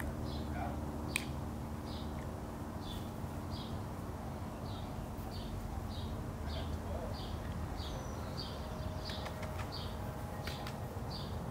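A bird repeating a short high chirp over and over, about one and a half calls a second, over a steady low hum.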